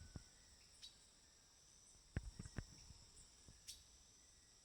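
Faint, steady chirring of rainforest insects such as crickets, with a few soft knocks about two seconds in.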